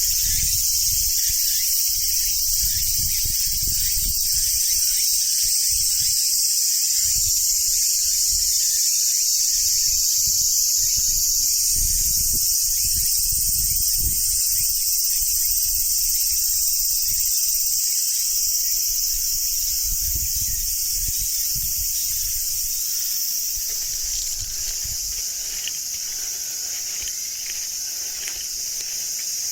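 A steady, high-pitched chorus of insects shrilling, over an uneven low rumble.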